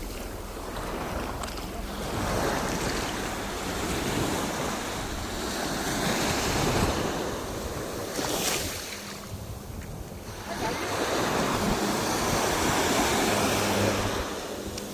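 Sea waves breaking and washing up the shore, the surf swelling and falling back every few seconds, with a sharper crash about halfway through. Wind buffets the microphone.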